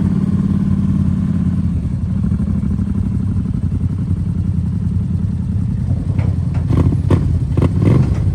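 Off-road vehicle engine running steadily while riding, with a few clattering knocks near the end.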